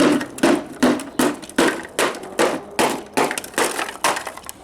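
A hammer striking a Memorex speaker over and over to smash it, about a dozen sharp blows at roughly three a second.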